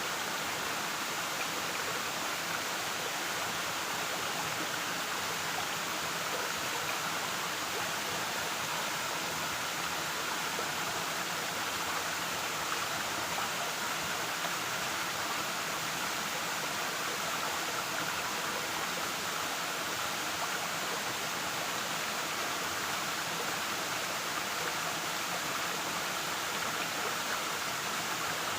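Waterfall running in a steady, unbroken rush of falling and splashing water.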